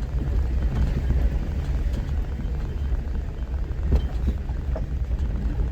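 Jeep driving along a mountain trail, heard from inside the cab: a steady low rumble of engine and tyres, with a few sharp knocks, the clearest about four seconds in.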